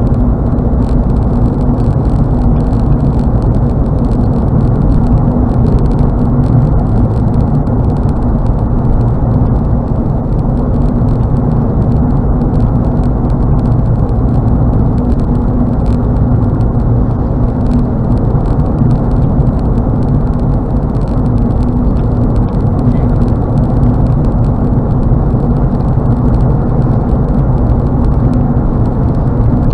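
Steady road and engine noise heard inside a car cruising at highway speed: an even, unchanging low drone of tyres and engine.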